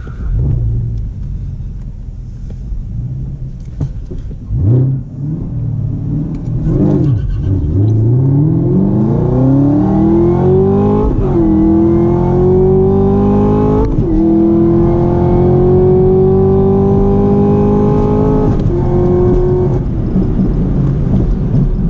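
2017 Chevrolet Camaro ZL1's supercharged 6.2-litre V8, heard from inside the cabin on a drag-strip pass. It runs low with a couple of short revs, then launches about eight seconds in and climbs steadily in pitch. Three upshifts at about 6400 rpm, each a sudden drop in pitch, come near 11, 14 and 18 seconds, and the engine lifts off and falls away near the end.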